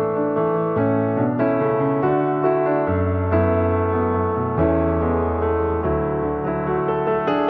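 Background piano music: soft chords over low bass notes, with new notes coming in every second or so.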